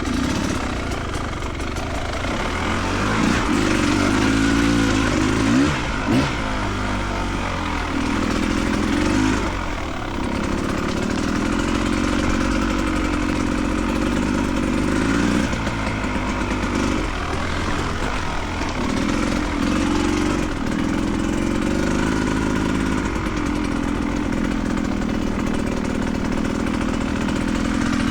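A vehicle engine running steadily, its pitch rising, holding and falling again several times as it speeds up and eases off.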